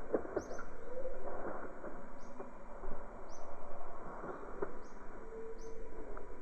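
Birds calling in jungle ambience: short high chirps repeating every half second to a second, with a few lower cooing notes, over a constant rushing noise.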